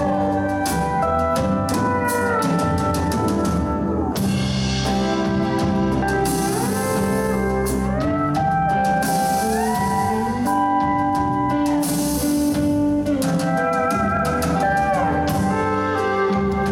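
Live band playing an instrumental break: a lead guitar line with gliding, bent notes over drums, with cymbal wash twice.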